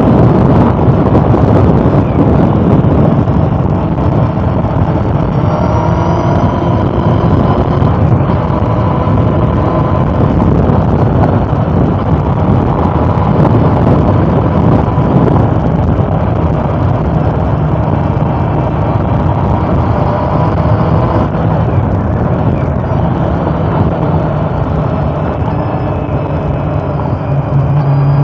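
Honda CB400 Super Four's four-cylinder engine running on the move, under a heavy rush of wind and road noise. The engine note shifts in pitch now and then, and near the end a steady engine tone comes through more strongly.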